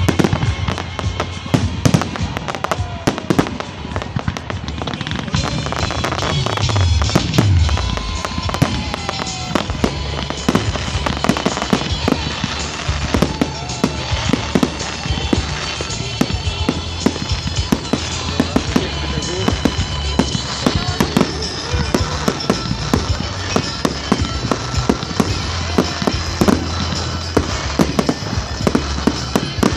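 Fireworks display: a steady run of bangs and crackles from bursting shells, many a second, with music playing beneath.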